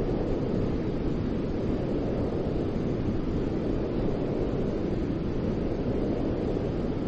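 Steady white-noise sleep sound for soothing a baby, a deep, even hiss weighted toward the low end, with no change or break.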